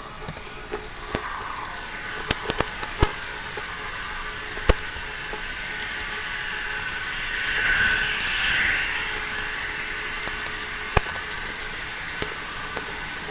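Model train running along the track: a steady rolling whirr with scattered sharp clicks, swelling louder for a couple of seconds around the middle as it passes close.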